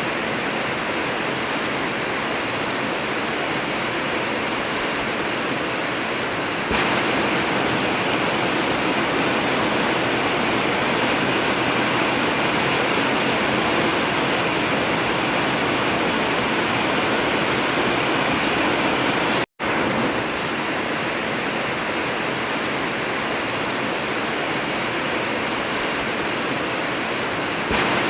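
Heavy rain falling steadily on an old zinc (corrugated metal) roof: a dense, even hiss. It gets a little louder about seven seconds in and cuts out for an instant about two-thirds of the way through.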